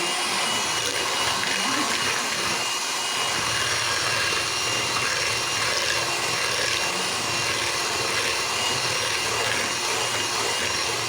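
Electric mixer running steadily with a constant motor whine, whipping cold fresh cream with sugar into whipped cream.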